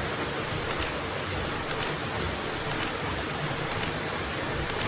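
Waterfall's falling water: a steady, even rush of noise.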